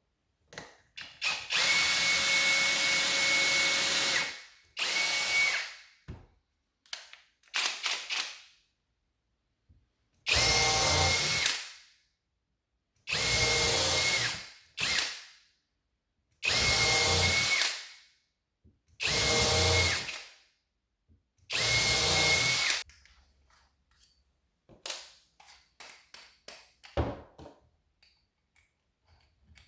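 Skil PWRCore 20V brushless cordless drill driver running in a series of short bursts, about seven in all. Each run has a steady whine and winds down when the trigger is released. Light clicks and handling knocks follow near the end.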